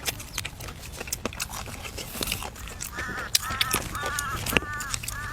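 Domestic fowl honking in a quick series of short calls, about two a second, starting about three seconds in, over scattered sharp clicks and taps.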